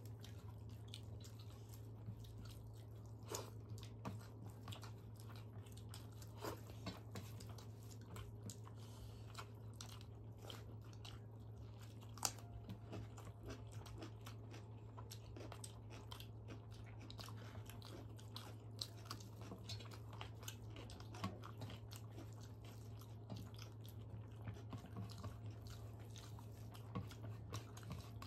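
Close-miked chewing and mouth sounds of people eating rice and fried vegetables by hand, with scattered small crunches, clicks and fingers on steel plates, one sharper click about twelve seconds in. A steady low hum runs underneath.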